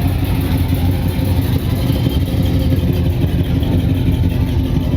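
Car engine running with a steady, loud, low exhaust rumble.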